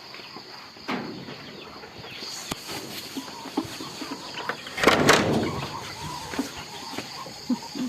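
Chickens clucking softly over a steady high chirr of crickets, with scattered small clicks and a loud scuffing noise about five seconds in.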